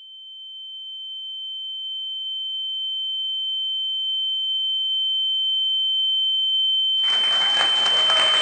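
A steady, high-pitched electronic pure tone that keeps growing louder. Near the end, applause and crowd noise cut in abruptly.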